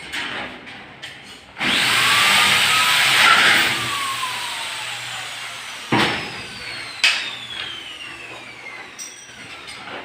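A power tool runs at speed for about two seconds, then is released, and its motor whine slides down in pitch as it spins down. Two sharp knocks come near the middle.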